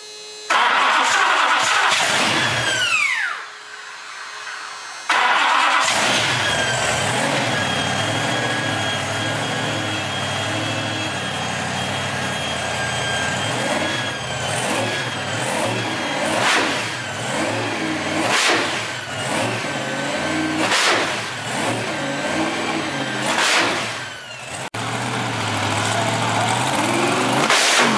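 Twin supercharged 572 cubic-inch Keith Black Hemi V8 engines of a hot rod starting up: a whine falls away in the first few seconds, then the engines fire about five seconds in and run loud with a steady high whine over them, revved in sharp blips every two to three seconds.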